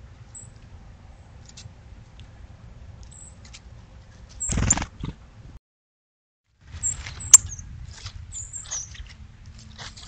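Short, sharp, high chip notes from small birds, repeated irregularly over a low background rumble. A loud noisy burst comes about halfway through, then about a second of dead silence, then a sharp click before the chips resume.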